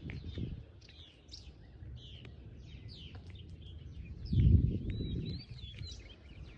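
Several small birds chirping, with many short rising and falling calls throughout. About four seconds in there is a brief low rumble, louder than the birds.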